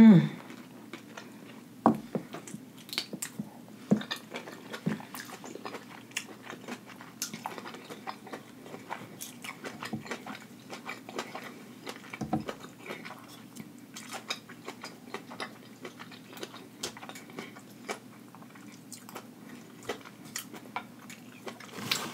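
Close-miked eating of sauce-covered seafood: wet chewing, biting and lip smacks, irregular short clicks with pauses between them. A brief loud hum of the eater's voice comes right at the start.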